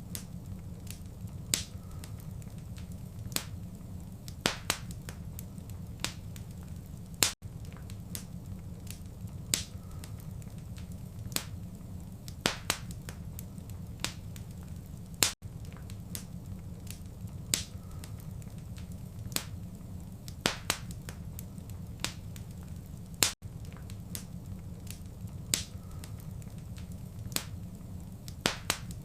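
Wood fire crackling, with sharp irregular pops and snaps over a steady low rumble. The short recording loops about every eight seconds, with a brief dropout at each seam.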